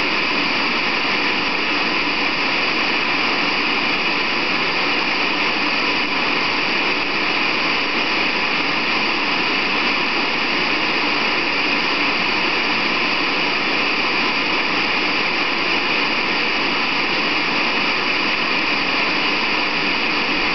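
Continuous white-noise hiss, steady and unchanging, brightest high up.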